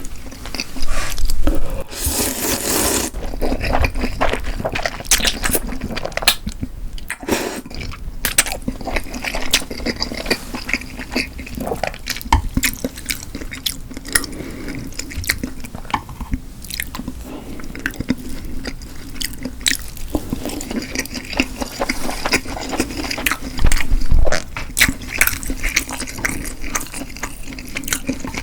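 Close-miked eating sounds: a person chewing and biting sushi and cold buckwheat noodles, with wet clicks and squishes. There are two louder noisy bursts, one about two seconds in and another a few seconds before the end.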